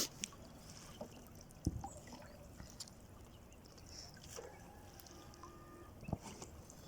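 Faint water trickling and dripping around a small boat, with two short knocks, one early in the sound and one near the end.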